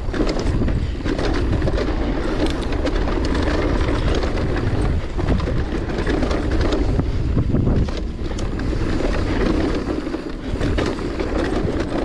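Wind buffeting the microphone over the rush of mountain-bike tyres on dry, loose dirt during a fast descent, with frequent short clicks and rattles from the Giant Reign E+ electric mountain bike.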